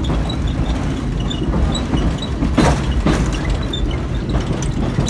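Passenger car of a heritage excursion train rolling along the track, heard from inside: a steady low rumble with a couple of knocks about halfway through.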